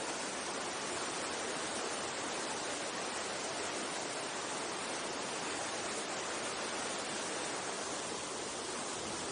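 Mountain stream water rushing, a steady even rush with no breaks.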